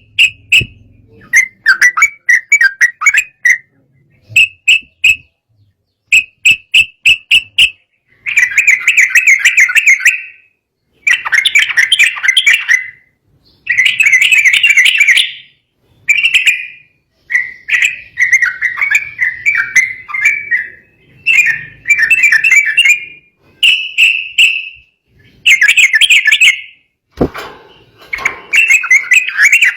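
Sooty-headed bulbul (trucukan) singing agitatedly in loud bursts of rapid, chattering chirps, each phrase a second or two long with short pauses between. A single sharp knock about 27 seconds in.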